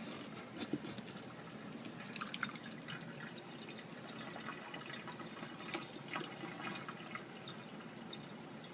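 Liquid from a liquefied, bacteria-spoiled watermelon dripping and running out, a faint scatter of small drips.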